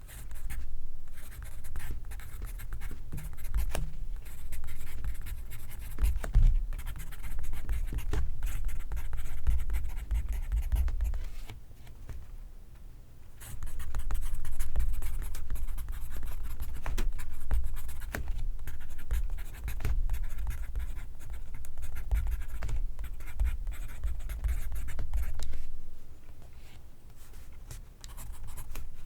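Pencil writing on paper: quick scratchy strokes in close succession, with a heavy low thud underneath, pausing briefly about halfway through.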